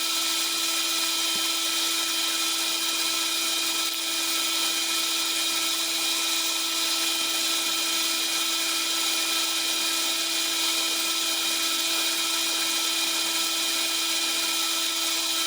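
Metal lathe running steadily with a drill bit feeding into the end of a turned shaft, drilling a hole about an inch deep that will be tapped for a 1/4-inch bolt. A steady, even whine that does not change in pitch.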